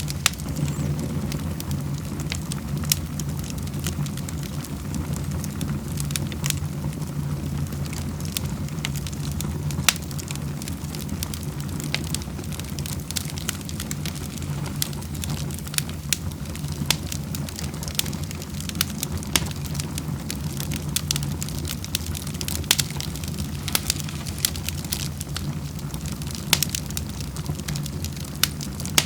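Wood fire burning in a fireplace: a steady low rumble of flames with frequent, irregular sharp crackles and pops of burning wood.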